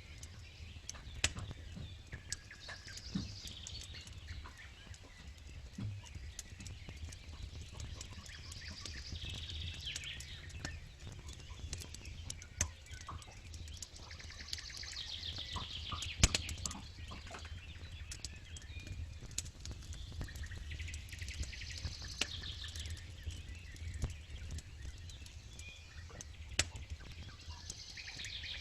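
Campfire crackling with scattered sharp pops, one loud pop about halfway through, over a low steady rumble. Birdsong phrases come every five or six seconds.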